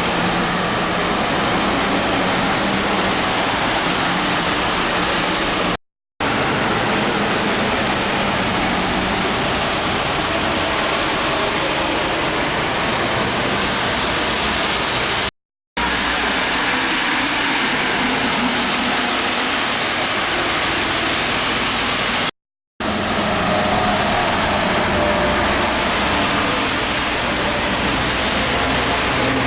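Steady hiss of heavy rain and tyres on a wet expressway, with truck engines passing underneath. It breaks off briefly three times.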